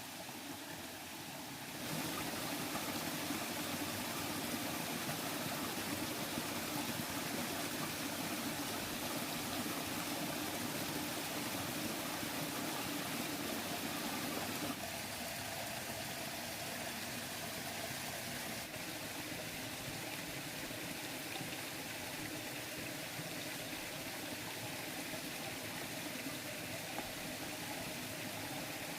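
Water flowing in a stream, a steady rushing that gets louder about two seconds in and changes tone about halfway through.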